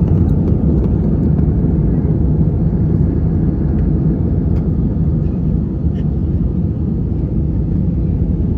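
Steady low roar inside a jet airliner's cabin: engine and airflow noise, unchanging, with a few faint clicks.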